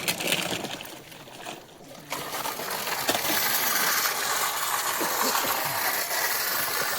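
Small 6 mm stone chips pouring and rattling in a steady stream, picking up strongly about two seconds in.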